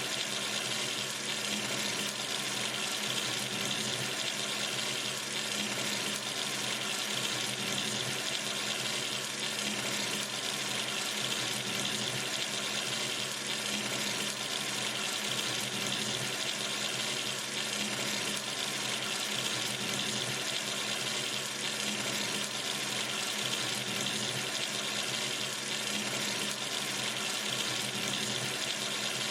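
Water running steadily from a sink tap into the basin, a constant hiss with no change.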